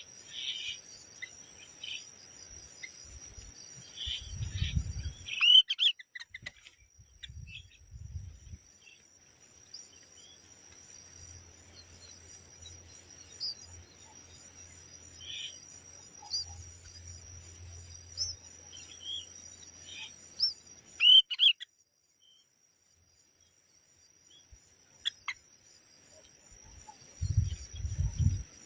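Short scattered bird chirps over a steady, high-pitched insect trill with an evenly pulsing buzz above it. A couple of sharp clicks and a few low thumps break in.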